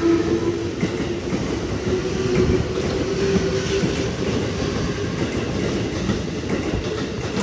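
Electric commuter train running through a station, its wheels clattering over the rail joints over a steady rumble, with a steady whine that fades out about halfway through.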